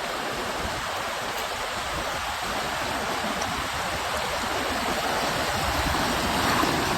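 Rushing river rapids: a steady, unbroken rush of whitewater.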